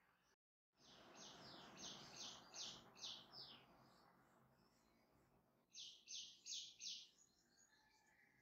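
Small bird chirping in two quick runs of short, high, falling notes, about seven in the first and four in the second, with a soft hiss under the first run.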